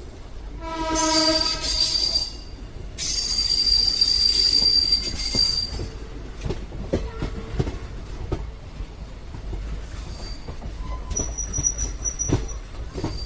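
Passenger train running along the track with a steady rumble and wheel clicks. About a second in, its horn sounds once for under two seconds. The wheels then squeal high-pitched against the rails for about three seconds, and squeal again briefly near the end.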